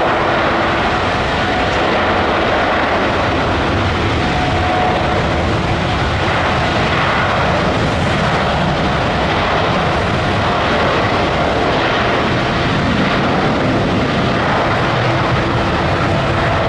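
Boeing 787's twin jet engines at takeoff thrust: a loud, steady roar with a few faint steady whining tones on top.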